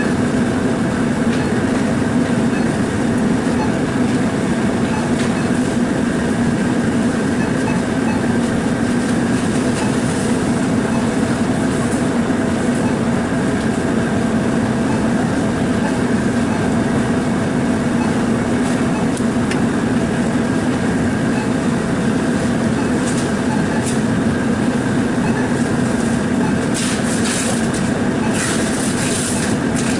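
A steady, loud mechanical drone with a low hum and faint higher steady tones, unchanging throughout; a few sharp clicks and taps come near the end.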